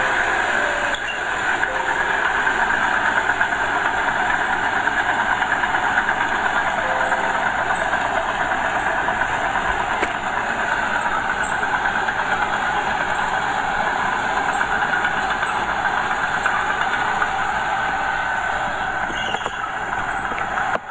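Small Komatsu bulldozer's diesel engine running steadily at work, a continuous even mechanical noise.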